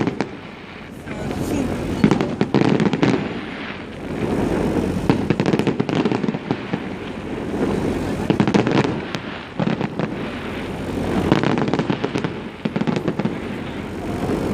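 Fireworks display: dense crackling and popping of bursting shells, coming in swells that build and fade every few seconds.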